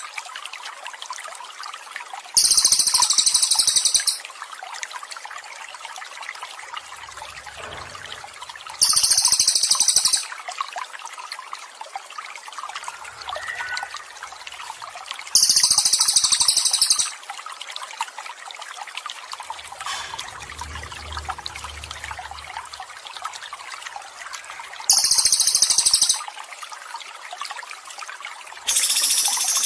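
Water trickling steadily, with a bird's loud, very high-pitched trilling song repeating in bursts of about a second and a half, roughly every six seconds, as a masteran recording for training cage birds.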